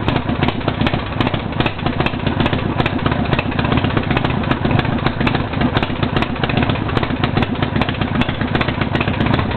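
Custom-built motorcycle engine idling steadily, with a fast even pulse and no revving.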